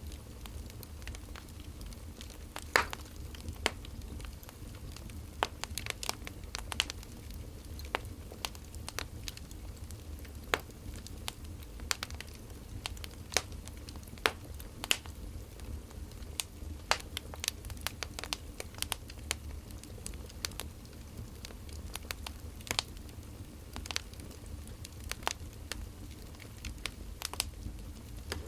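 Firewood burning, crackling with irregular sharp pops and snaps over a steady low rumble.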